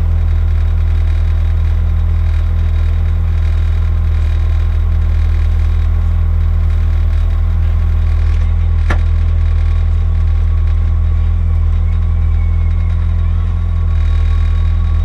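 Peugeot 106 N2 rally car's four-cylinder engine idling steadily, heard from inside the cabin, with one brief click about nine seconds in.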